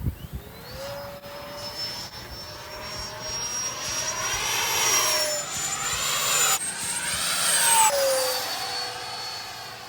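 Freewing F-22 Raptor RC jet's 90mm electric ducted fan making a steady high whine that climbs in pitch about half a second in. The jet makes low passes, getting louder and dropping in pitch as it goes by, once around the middle and again, loudest, near the end.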